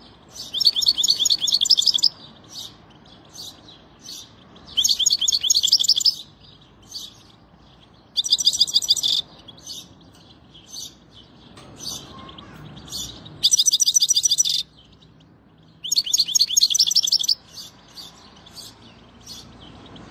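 A songbird singing: five fast, high trilled phrases of about a second each, with short single chirps in the gaps between them.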